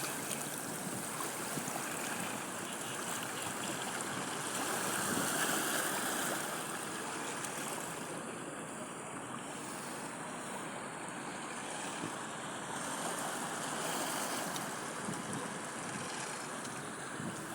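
Sea waves washing onto a beach, a steady rush of surf that swells and eases slowly, with some wind noise on the microphone.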